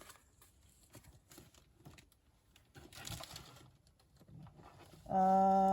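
Faint rustling and handling of lace trims and craft materials. About five seconds in comes a loud, steady, low pitched tone lasting about a second.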